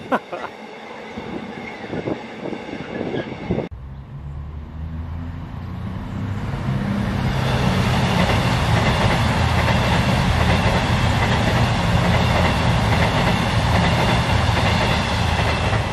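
The last wagons of a container freight train clatter away over the rail joints. Then a diesel multiple unit passes close at speed: its underfloor engines drone and the wheel and rail noise grows louder over a few seconds, then holds steady.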